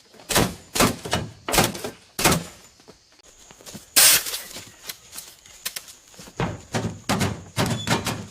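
A wooden storage unit being handled: about a dozen irregular knocks and thumps of wooden panels or doors, the loudest about four seconds in, with a quicker run of knocks near the end.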